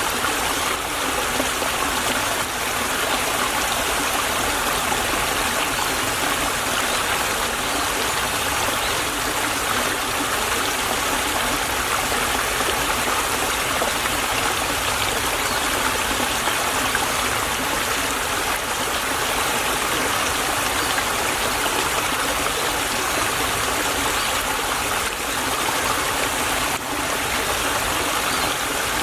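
Shallow stream of water running and trickling, a steady babble.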